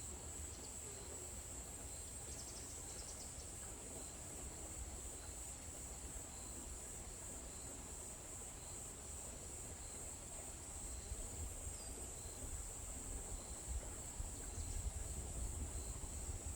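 Insects, crickets by their sound, trilling in one steady high-pitched drone. A faint ticking call repeats about twice a second, and a low rumble grows stronger in the second half.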